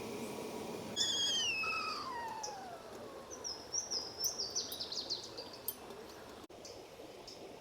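A bird calling: one long whistled note falling steadily in pitch, then a quick run of high chirps, over a steady rush of creek water.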